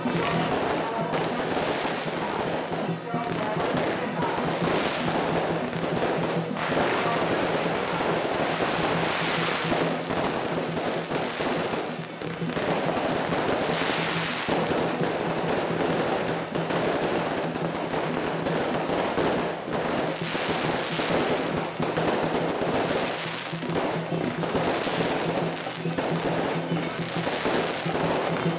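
Strings of firecrackers crackling in a continuous rapid rattle, with procession music and a steady low drone underneath.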